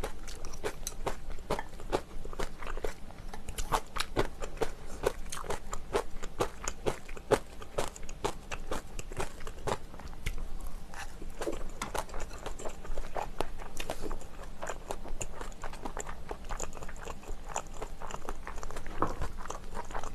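A person chewing and biting food, a dense, irregular run of small clicks and crunches.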